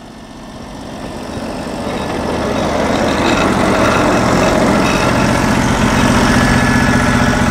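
Gas engine of a Norwood portable bandsaw mill running, growing louder over the first few seconds and then holding steady.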